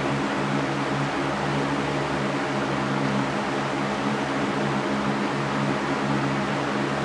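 Electric fan running steadily: an even whooshing noise with a low hum from the motor.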